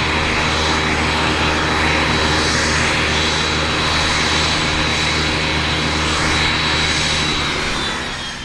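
Cessna 501 Citation I/SP's Pratt & Whitney Canada JT15D turbofan engines running in a ground engine test: a steady loud rumble with a high, constant fan whine. Near the end the whine dips slightly and the sound fades out.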